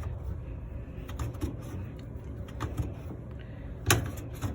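Handling noise from a hand reaching into a dryer's lint-trap slot and pulling out lint: a few short scrapes and knocks against the plastic housing, with a sharper knock near the end, over a steady low hum.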